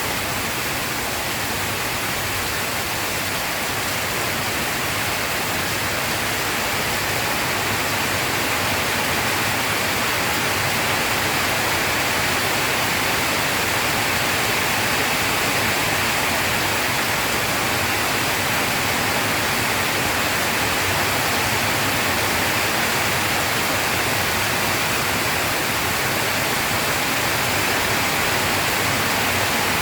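Steady rain falling, an even hiss with no thunder or breaks.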